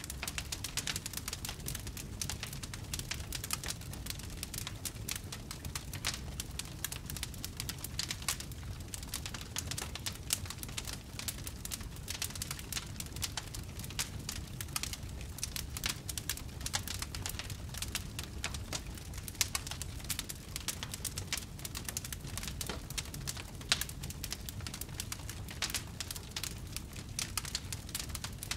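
Wood fire burning in a fireplace: dense, irregular crackling with occasional louder pops over a low, steady rumble of the flames.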